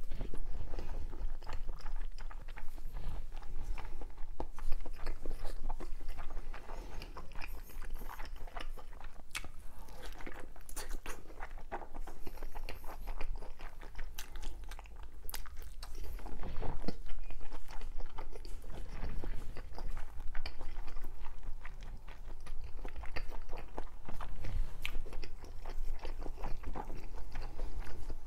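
Close-up chewing and biting of fish cake (eomuk), with many small mouth clicks throughout.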